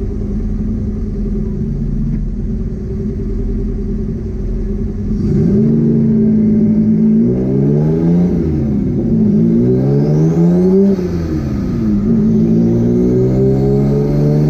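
Twin-engine, twin-turbo Mazda MX-3 cruising steadily, then pulling hard from about five seconds in: the two engines' note climbs, drops back at two gear shifts and climbs again.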